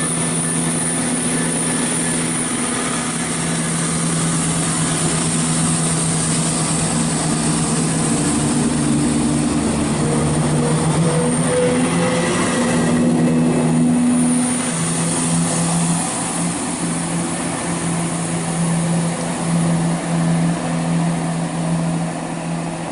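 Two coupled Class 170 Turbostar diesel multiple units departing, their underfloor diesel engines droning steadily under power, with the engine note shifting upward partway through as they pull away.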